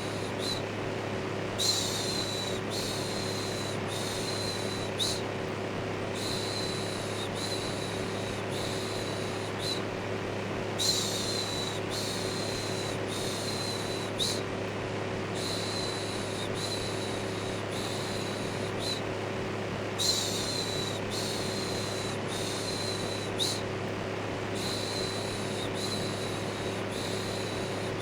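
Electric fan running with a steady whoosh and low hum, overlaid by a looped human 'shhh' shushing sound that repeats about once a second in runs of three or four with short breaks between runs, used as white noise to calm a baby.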